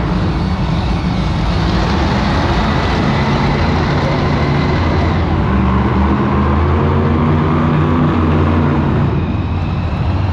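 Monster truck engines running loud, revving up and down in pitch, easing off slightly near the end.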